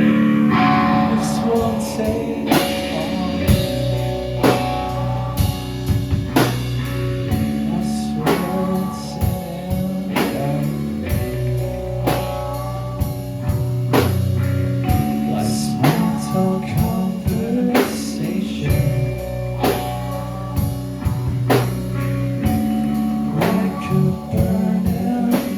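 Live rock band playing an instrumental passage: a drum kit keeps a steady beat under sustained bass and electric guitar chords.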